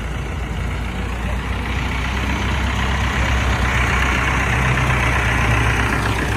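An engine running steadily at low revs, with a rushing hiss that swells around the middle and fades near the end.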